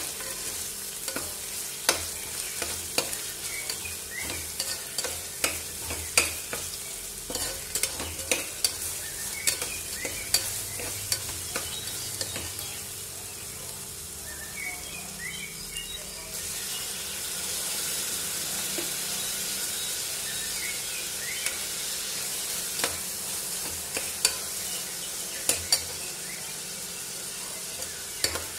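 Sliced onions sizzling in hot oil in a steel pressure cooker, stirred with a perforated steel ladle that clinks and scrapes against the pot. The clinks come every fraction of a second at first and grow sparser; from about halfway the sizzle is louder and steadier.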